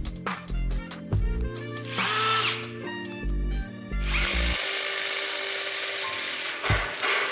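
Background music with a beat, then about four seconds in a cordless impact driver runs for about two and a half seconds, a steady whirring over the music.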